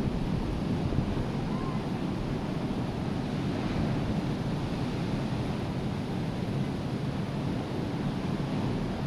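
Rough sea surf breaking with a steady wash, and wind buffeting the microphone.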